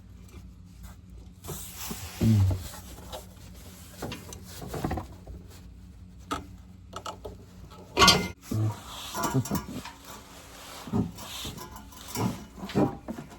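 Scattered metal clinks and knocks from an exhaust hanger removal tool prying a car's exhaust off its hanger pins, with one loud clank about eight seconds in and a short grunt of effort.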